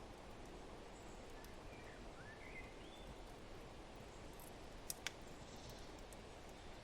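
Faint mixed fireplace-and-forest ambience: a steady hiss of wind with a few short rising bird chirps in the first half, and two sharp crackles of a wood fire about five seconds in.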